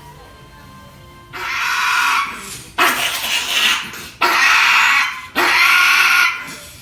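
A dog screaming during a grooming session, four long, loud, pig-like squeals in a row after a quieter opening second. It is a frightened dog's distress cries at being handled, not a sign of injury.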